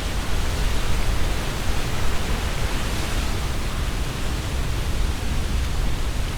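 Strong gusting wind through tree foliage, the leaves rustling in a steady wash, with low rumbling buffeting from wind on the microphones.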